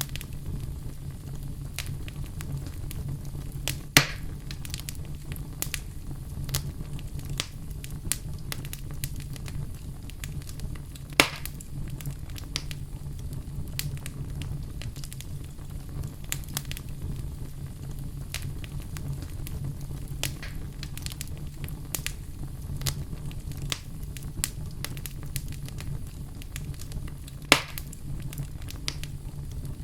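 Fire burning in a fireplace, crackling steadily over a low rumble. Three much louder sharp pops come about 4 seconds in, about 11 seconds in and near the end.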